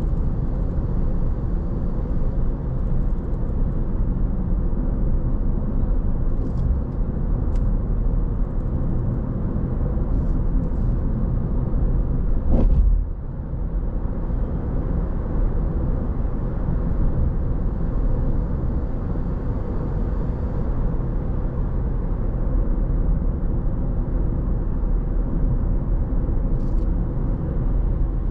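Car driving on a road: a steady low rumble of tyre and engine noise, with one brief sharp knock about halfway through.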